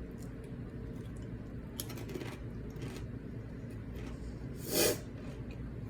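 Eating sounds: chewing chips loaded with chili cheese dip, with a few soft crunches and one louder, brief crunch about three-quarters through.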